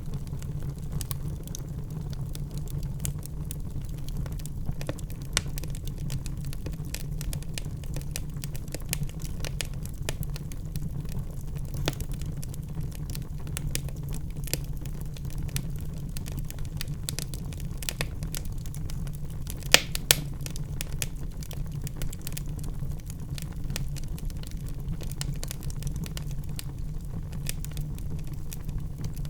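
Wood fire in a fireplace crackling, many small pops and snaps over a steady low rumble, with two louder snaps close together about twenty seconds in.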